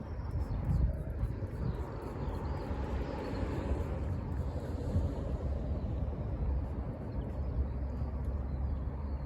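Outdoor ambience: a steady low rumble with a broader swell of noise through the middle few seconds.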